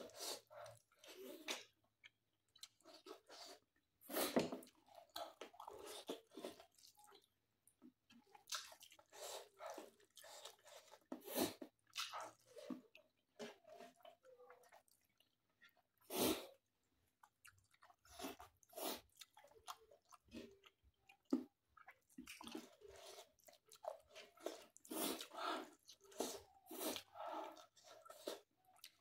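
Close-up chewing and mouth sounds of a person eating rice and mutton by hand: irregular wet smacks and short clicks, with a few louder sharp ones about 4, 11 and 16 seconds in.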